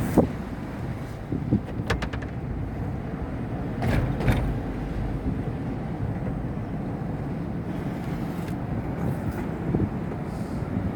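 Tahoe SUV driving slowly, a steady rumble of engine and road noise, with a few sharp knocks and rattles about 2 and 4 seconds in.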